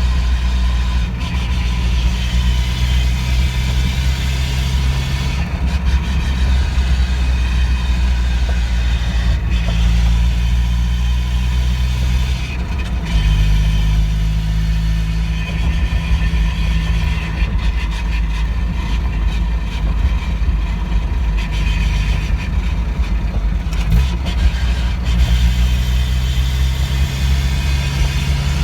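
NA Mazda Miata's four-cylinder engine and drivetrain running while driving, the engine note shifting between steady pitches several times, with a thin steady high tone throughout. The owner is chasing an unexplained drivetrain noise that began after a differential change and remained after a transmission swap.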